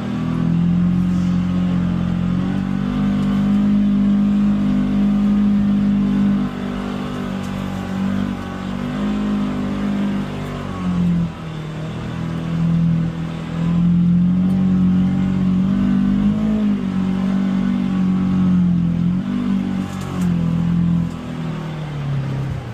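Polaris Xpedition UTV engine driving a rough trail, its note rising and falling over and over as the throttle is worked.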